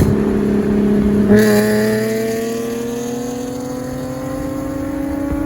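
Car engine holding a steady note, then, just over a second in, an engine note that climbs slowly and steadily in pitch as the car accelerates.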